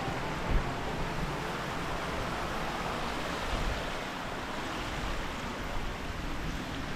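Steady rush of a mountain river and waterfalls, an even wash of water noise, with a brief low thump about half a second in.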